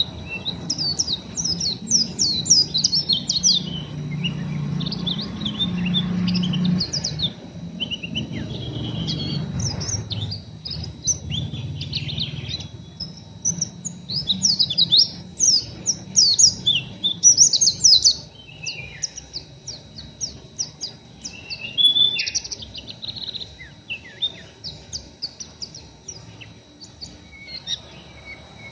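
Pleci (white-eye) giving rough, rapid twittering (ngeriwik): dense clusters of quick, high, falling chirps with short pauses between them, typical of a raw, newly caught bird still in training. A low rumble runs underneath in the first half.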